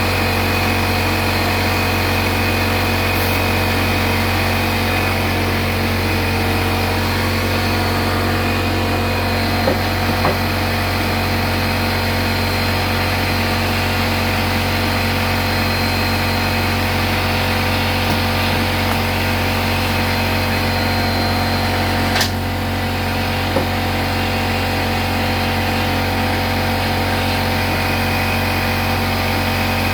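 Steady machine hum with a strong low drone, running unchanged throughout, with a few light clicks and knocks, the clearest about three-quarters of the way in.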